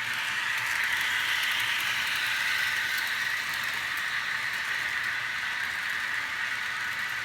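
HO-scale model train running on the layout: a steady whirring hiss of the locomotive motor and wheels rolling on the track, growing louder over the first second as it comes near.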